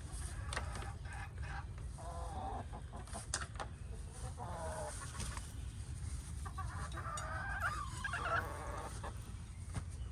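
Hens clucking and giving short calls on and off, with a steady low rumble of wind on the microphone.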